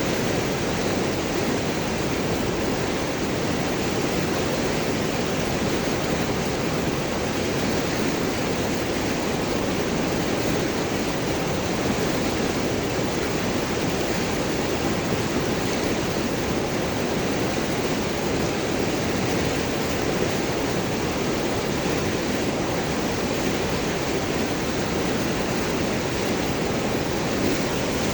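River water flowing and gurgling over and around large rocks, a steady, even rushing.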